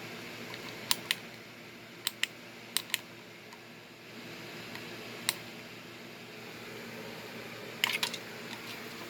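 A run of about ten sharp clicks, mostly in close pairs, with a single one in the middle and a quick cluster near the end, over a steady low room hum.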